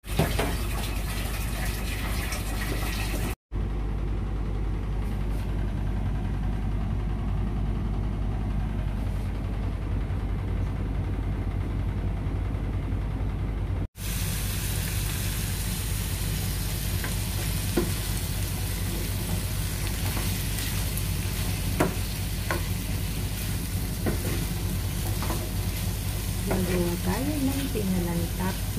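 Seafood and onions sizzling in a wok while being stirred with a metal spoon, with a few sharp clinks of the spoon against the pan.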